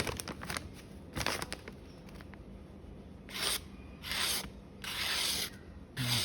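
Steel paring-knife blade drawn across a sharpening stone in several short scraping strokes, coming closer together in the second half. These are finishing strokes to refine the edge and take off the burr.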